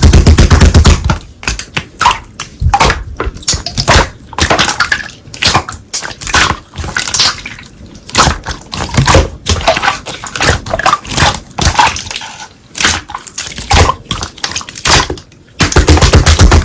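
Slime being squeezed, stretched and poked by hand, making a quick run of wet clicks, pops and crackles.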